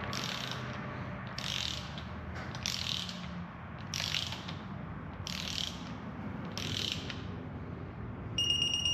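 Ratchet wrench working a bolt on a 3.5 EcoBoost exhaust manifold, with seven short ratcheting strokes about a second apart. Near the end a high, steady electronic beep starts.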